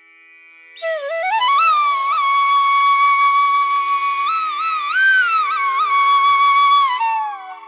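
Background music: a flute-like melody that enters about a second in, slides up into a long held note with a brief bend, then falls away near the end, over a faint steady drone.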